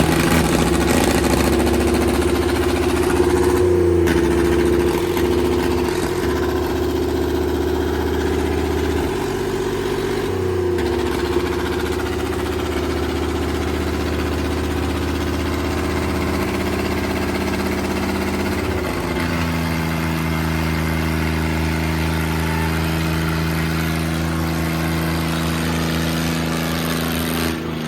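Tractor diesel engine running with a steady note that drops to a lower pitch about two-thirds of the way through.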